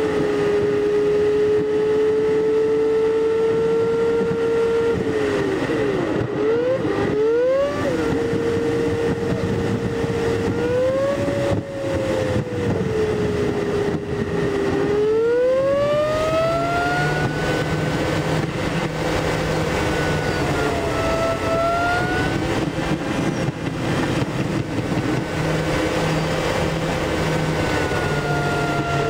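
Smart Roadster Coupé's three-cylinder engine and road noise heard inside the cabin, sped up eight times, so the engine's drone is a high tone. The tone dips and climbs quickly in pitch several times, over a steady rush of road and wind noise.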